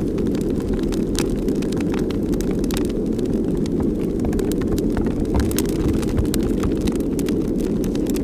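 Strong wind blowing over the microphone, a steady low rumble throughout, with frequent small clicks and crackles.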